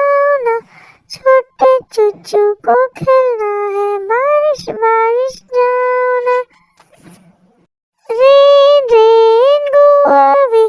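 A high-pitched, child-like voice singing a Hindi nursery rhyme in short phrases and long held notes, with a pause of about a second and a half past the middle.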